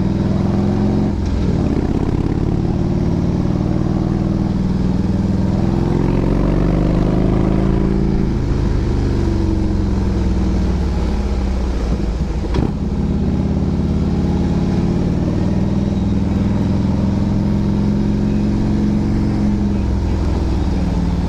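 Motorcycle engine and exhaust running under load on a winding mountain climb, the engine note rising and falling repeatedly as the rider works the throttle through the curves, with a brief dip about twelve seconds in.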